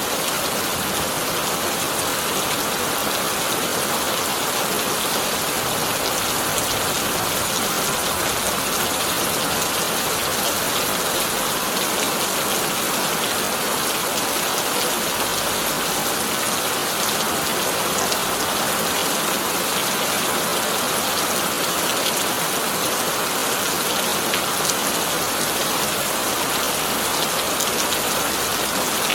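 Heavy rain drumming on a corrugated tin roof, a steady dense hiss of drops with faint individual ticks scattered through it.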